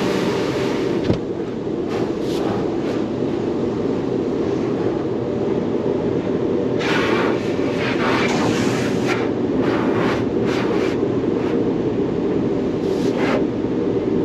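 Touchless automatic car wash running on a car: a steady rumble of the machinery and water. Louder hissing bursts of spray hit the car from about seven to nine seconds in and again near thirteen seconds.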